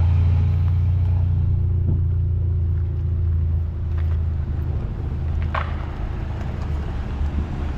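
A car engine running at idle nearby, a deep steady rumble that eases a little about halfway through.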